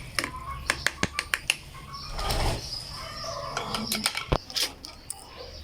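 Birds flapping their wings, with many sharp taps and clicks scattered through and a brief rustling burst about two seconds in.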